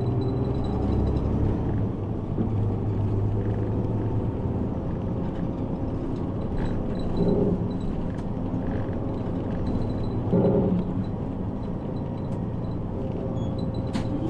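Route bus running along the road, its engine and road noise heard from inside the passenger cabin as a steady low rumble. The noise swells briefly twice, about seven and ten seconds in.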